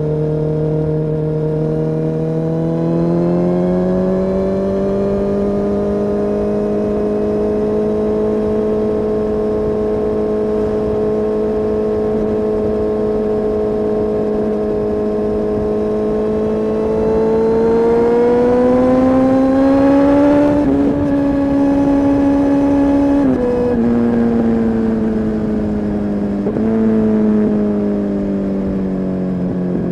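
Kawasaki ZX-10R's inline-four engine and exhaust under way, its pitch climbing gradually twice as the revs build. In the last several seconds the revs drop and jump in abrupt steps, as with gear changes.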